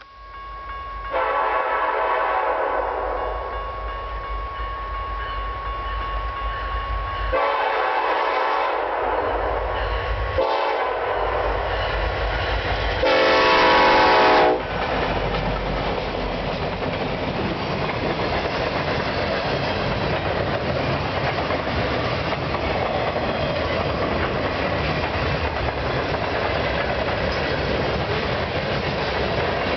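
Locomotive air horn, a five-chime Nathan K5LLA, sounding four blasts with the last the loudest, as the freight train approaches. After the horn comes the steady rumble and clatter of the locomotives and freight cars rolling past.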